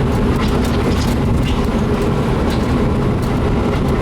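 VW Type 2 bus driving along, heard from inside: a steady low engine and drivetrain drone with scattered light rattles and ticks. The noise comes from a transmission that the owner believes has a failed main bearing.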